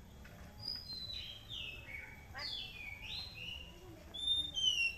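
Melodious bird-like whistled song: clear notes that slide downward in steps, then higher, shorter notes near the end.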